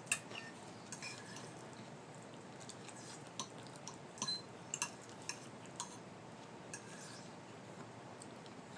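Forks and knives clicking and scraping lightly against dinner plates while eating, a dozen or so scattered soft clinks, one ringing briefly about four seconds in.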